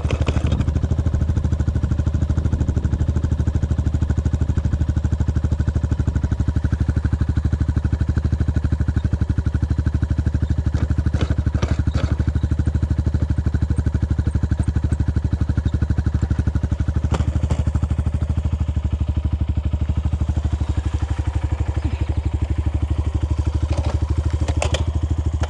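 Dirt bike engine running steadily at an even pitch, with a few light clicks.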